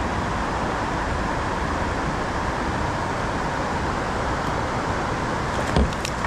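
Steady rushing noise of flowing river water, with a single low thump and a few light clicks near the end.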